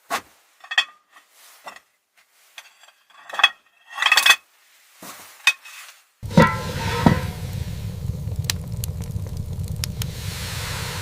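Scattered clinks and clatter of metal objects, some ringing briefly. About six seconds in, a steady low rushing noise cuts in abruptly, with a clank or two at its start.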